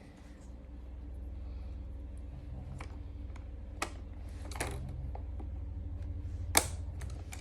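Sharp plastic clicks and taps from a Eufy robot vacuum's removable parts being handled, a few separate clicks with the loudest one near the end, over a steady low hum.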